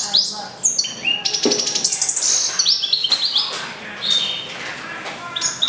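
Goldfinch × canary mule singing a continuous song: fast trills of rapidly repeated notes mixed with runs of short falling notes and slurred phrases.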